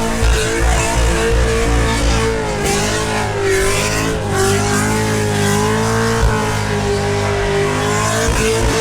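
V8 engine held at high revs, its pitch wavering up and down without dropping back to idle, as a car does in a burnout.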